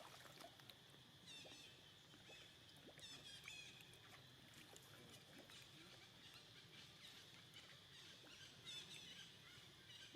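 Faint high-pitched animal chirps, repeated in short clusters several times, over a faint steady high hum.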